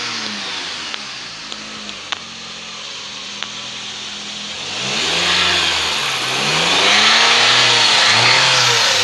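2011 Dodge Caliber's 2.0-litre four-cylinder engine running on test, tested good. It idles with a few faint clicks in the first half, then is revved up and let fall back twice, the second rev held a little longer.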